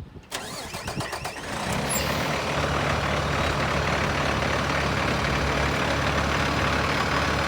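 Diesel engine of a 2013 Peterbilt 337 truck being cranked by its starter, catching about a second and a half in, then idling steadily.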